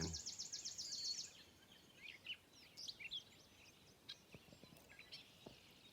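Small birds singing: a rapid, high, evenly pulsed trill that ends about a second in, followed by scattered short chirps and whistles.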